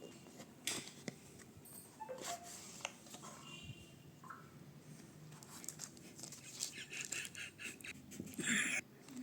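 Faint handling of a product's packaging by hand: scattered light clicks and scrapes, with a quicker run of rustling near the end.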